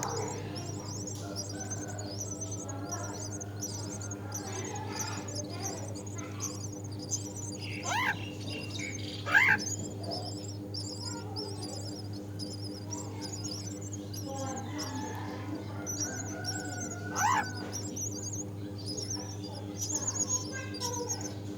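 Birds chirping with quick, high notes throughout, and three loud rising whistled calls about eight, nine and a half, and seventeen seconds in.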